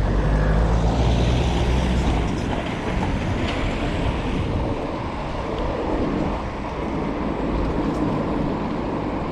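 Wind rushing over the microphone and tyre noise from a bicycle on the move, with a heavy low rumble strongest for the first two seconds.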